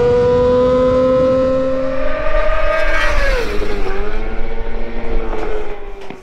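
Yamaha YZF-R6 Supersport race bike's inline-four engine revving hard at full throttle, its pitch climbing steadily in one gear. About three and a half seconds in the pitch drops sharply as the bike goes by, then the note sinks slowly away.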